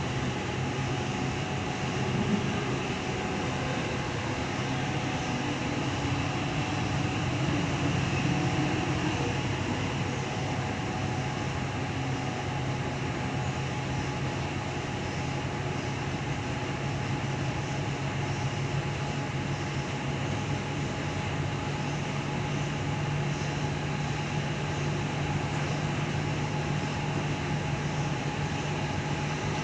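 Interior running noise of a Tangara electric suburban train in motion: a steady rumble of wheels on rail with a low hum and faint steady whines.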